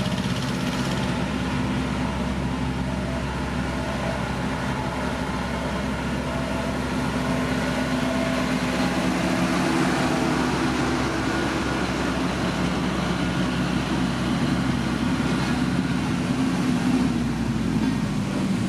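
Heavy road-building machinery engine running steadily, its pitch dropping slightly near the end.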